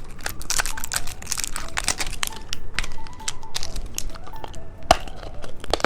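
Plastic candy packaging crinkling and crackling with many quick irregular clicks as it is handled.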